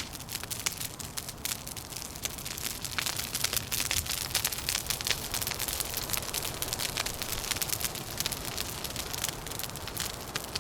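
Wood fire crackling with dense, irregular pops and snaps, over a steady low rumble of wind.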